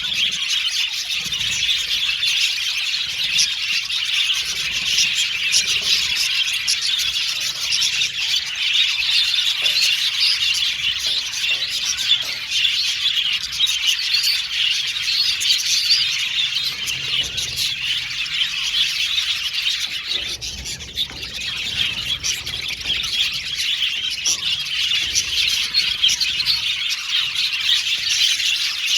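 A flock of budgerigars chirping, warbling and squawking together in a dense, continuous chatter, dipping briefly about two-thirds of the way through.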